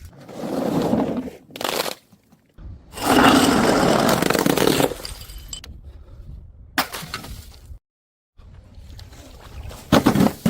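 Glass smashing and things being crushed, in short clips cut one after another: a crunching crash in the first second and a half, a longer loud crash from about three to five seconds, a sharp impact near seven seconds and a cluster of impacts near the end.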